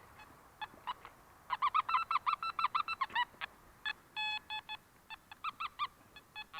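Metal detector giving target tones: a quick run of short warbling beeps about a second and a half in, then a few longer steady beeps, signalling a metal object in the ground.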